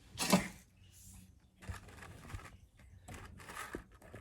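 Cardboard and paper being handled on a tabletop: a sharp scrape or crinkle about a third of a second in, then intermittent rustling and light scraping.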